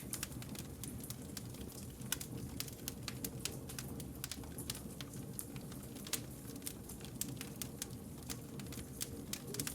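Wood fire burning, with dense irregular crackles and pops of burning logs over a steady low rumble of the flames.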